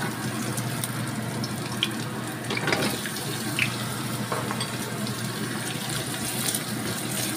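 Ginger strips sizzling steadily in hot oil in a stainless steel wok. Pumpkin chunks are tipped in partway through and stirred with a wooden spatula, with a few short knocks and scrapes against the pan.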